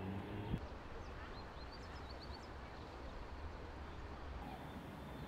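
A few small birds chirping, short high rising chirps about one to two seconds in, over a low outdoor rumble. A low steady hum cuts off with a click about half a second in.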